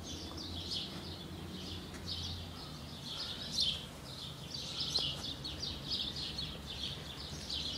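Birds chirping, many short overlapping chirps going on without a break.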